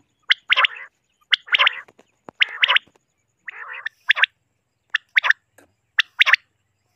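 Common quail calling over and over, about once a second, each call a short note followed by a quick louder pair in the species' three-note 'whit, wit-wit' pattern.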